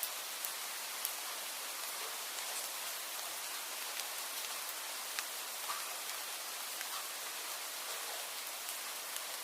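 Steady rain: an even hiss of falling rain with scattered louder single drops ticking on a surface.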